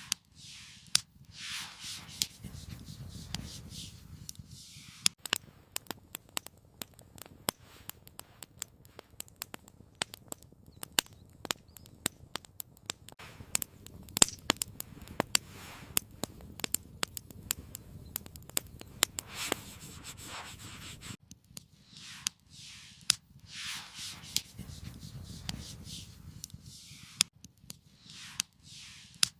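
Many irregular sharp crackles and clicks, thickest through the middle, with several swells of rustling scrapes that rise and fade near the start and again later on.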